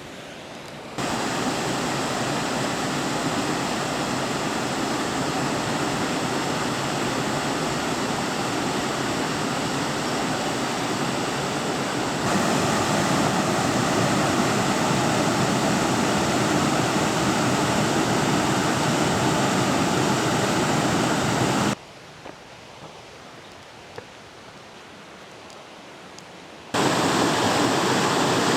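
Steady roar of a waterfall's falling water. It jumps abruptly in level between shots: up about a second in, louder again near the middle, dropping to a quieter hiss for about five seconds near the end, then back to full strength.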